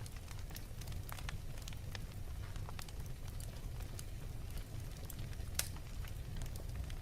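Wood fire in a fireplace crackling: a steady low rumble of flames with irregular small pops and snaps. One sharper pop comes about two-thirds of the way through.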